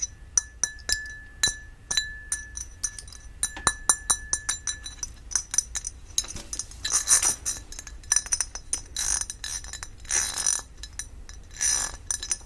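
Quick taps on a ribbed glass candle lid, the glass ringing with a steady tone for the first few seconds. About halfway through, several longer bursts of scratching across its ridged texture take over.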